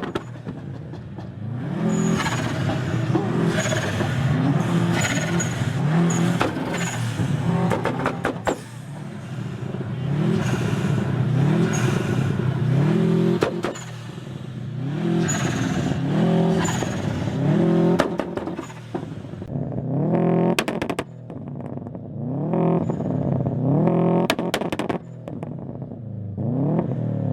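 A car engine revved hard again and again, its pitch climbing steeply and falling back about once every second or so.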